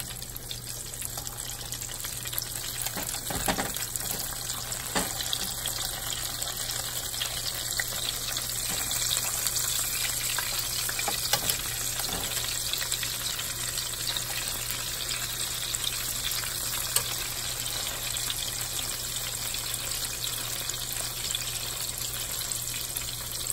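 Stuffed eggplant slices sizzling in shallow oil in a frying pan, a steady hiss, with a few light clicks of the tongs and slotted spatula in the pan as the slices are turned.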